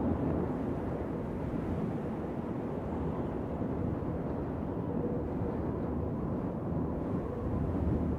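Wind blowing steadily, a low, even rush with slight swells in level.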